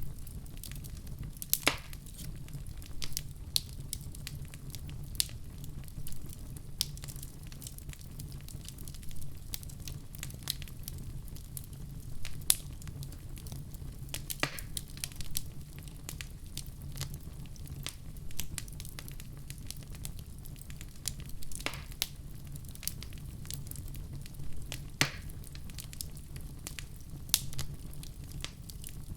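Wood fire in a fireplace crackling, with irregular sharp pops every second or so over a steady low rumble of burning.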